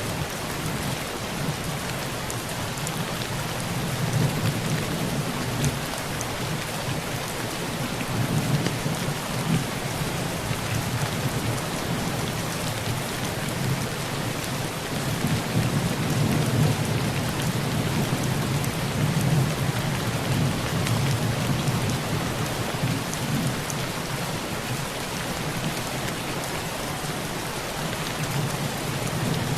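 Heavy rain pouring steadily on a tin roof, with low thunder rolling and swelling several times.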